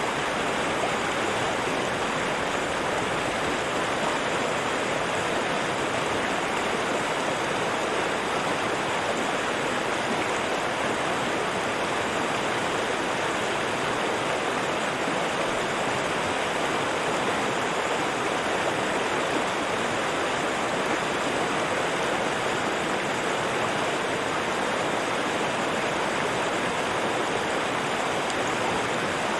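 River water rushing and babbling steadily.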